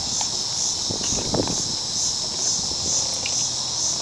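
Outdoor insect chorus, such as crickets: a steady high-pitched trill that pulses about twice a second.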